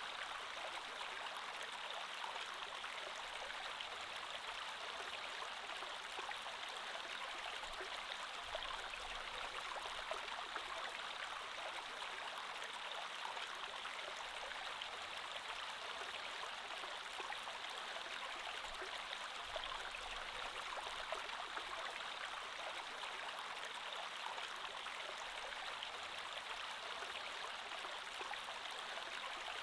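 Creek water flowing steadily, an even rush of running water with small flickering splashes.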